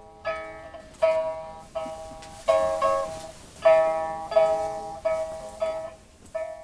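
Slow instrumental melody of single plucked-string notes, each struck sharply and ringing as it fades before the next.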